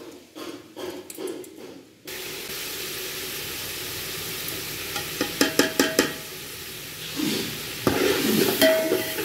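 Masala of tomatoes and chicken sizzling steadily in a metal pot, with a steel ladle knocking against the pot several times about five seconds in and scraping loudly as it is stirred near the end. The first two seconds hold only scattered faint clicks before the sizzling sets in.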